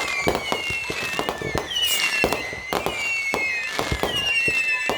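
Consumer fireworks going off in quick succession: repeated whistles that fall in pitch, mixed with many sharp bangs and crackles.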